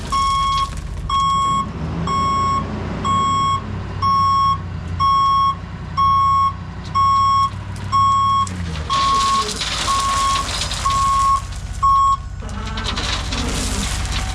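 Truck reversing, its backup alarm beeping about once a second over the diesel engine's hum. The beeping stops about 12 seconds in and a steady rushing hiss follows.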